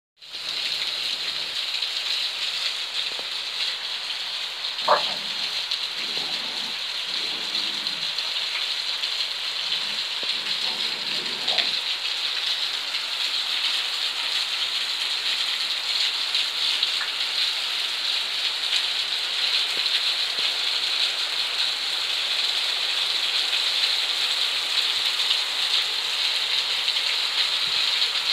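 Steady rain falling on wet concrete, an even hiss throughout, with a single sharp click about five seconds in.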